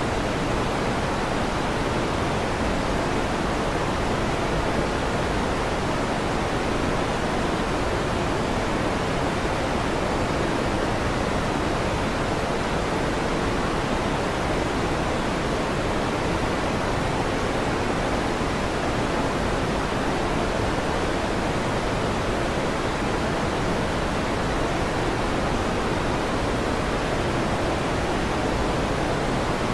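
Steady, even rushing noise of an electric fan running, without change and with no thunder rumble in it.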